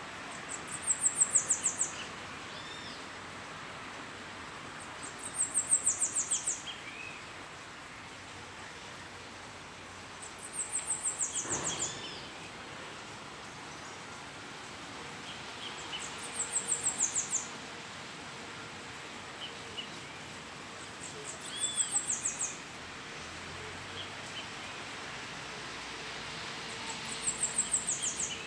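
A bird singing a short, very high song of rapid repeated notes that drops slightly in pitch, about a second long and repeated six times at roughly five-second intervals. Fainter short calls of other birds sound between the songs.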